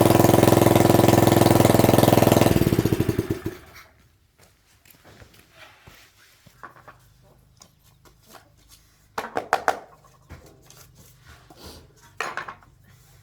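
A 750 W electric motor running steadily, then switched off about two and a half seconds in and spinning down to a stop over about a second and a half. Two short, brief sounds follow later in the quiet.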